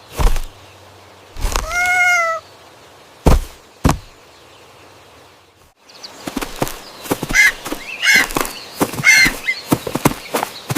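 Cartoon sound effects: a short animal-like cry that rises and falls about two seconds in, a few sharp knocks, then a busy run of quick chirps and clicks from about six seconds on.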